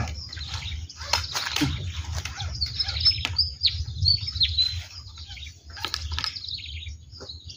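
Small birds chirping and calling repeatedly, with short whistled notes that slide in pitch, over a steady low rumble.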